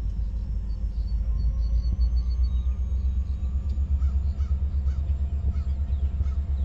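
Low, steady rumble of a Pennsylvania Northeastern freight train's cars rolling past a grade crossing, a refrigerated boxcar going by.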